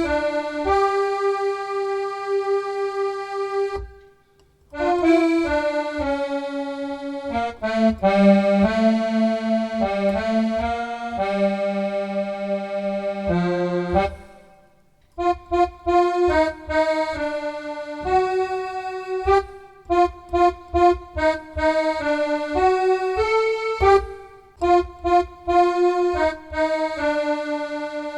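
Accordion music: long held chords at first, then short, bouncing staccato notes in a rhythmic tune from about halfway, with brief pauses between phrases.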